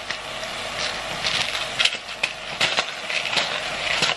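Ground pork and onions sizzling in a hot pot, a steady hiss with frequent sharp crackles and pops.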